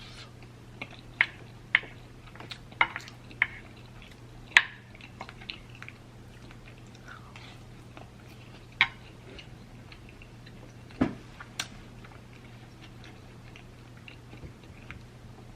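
Close-up eating sounds of chewing a piece of curry chicken, with scattered wet mouth clicks and smacks. A dull knock comes about two-thirds of the way through.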